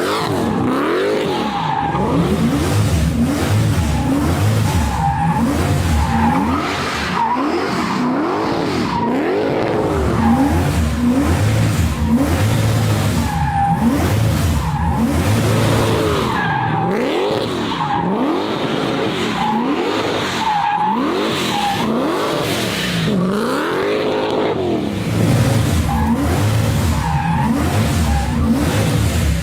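ProCharger-supercharged Buick Grand National drift car with its engine revving up and falling back again and again, about every second or two, as its rear tyres skid and squeal through the drift.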